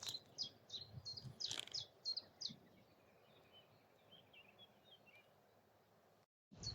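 Common nightingale singing: a rapid series of repeated sharp, high notes, then softer, quieter warbled phrases. The song breaks off about six seconds in.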